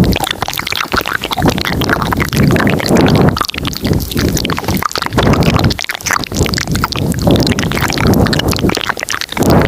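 Layered ASMR mouth sounds close to the microphone: dense wet clicks and smacks from several overlaid tracks, with low muffled swells coming and going.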